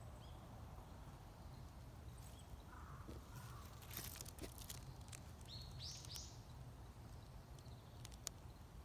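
Quiet outdoor ambience with a faint low rumble of wind, and a bird chirping a few times, three quick high notes about six seconds in.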